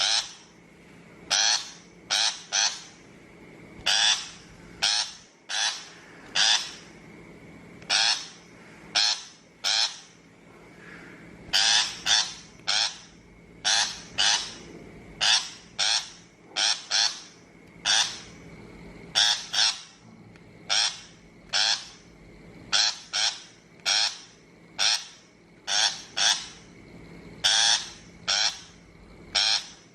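Shrike giving harsh, grating calls: short rasping notes repeated in ones, twos and threes about once a second, with a faint steady hum underneath.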